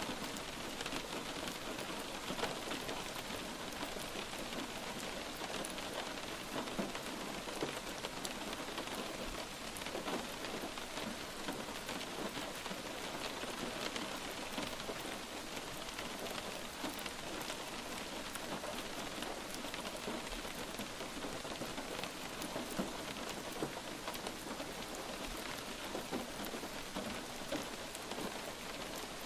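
Light rain falling steadily on a surface, a dense even patter of drops with no letup.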